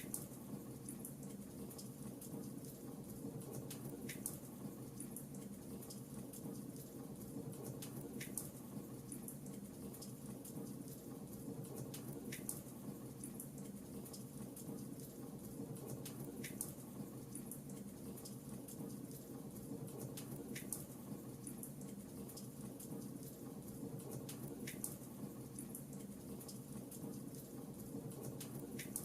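Fireplace fire crackling: a steady low rumble of burning with many small crackles, and a sharper pop about every four seconds.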